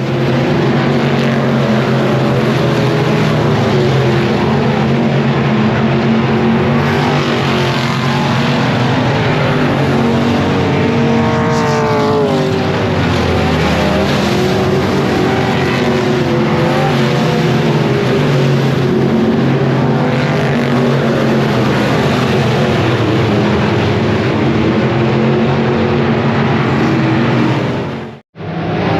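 Super Street dirt-track race cars running hard in a race, several engines at high revs together, with one car's pitch sweeping up then down about twelve seconds in as it goes by.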